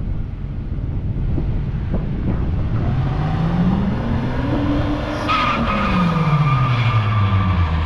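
Car engine revving, its pitch climbing for a couple of seconds and then falling away, with the tires squealing briefly as the revs peak: a burnout attempt that doesn't come off.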